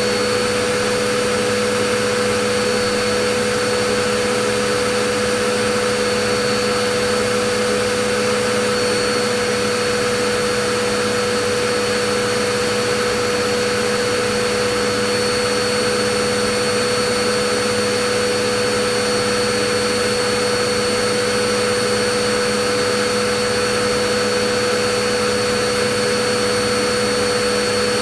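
Vacuum cleaner running steadily: an even motor whine over rushing air, with no change in pitch or level.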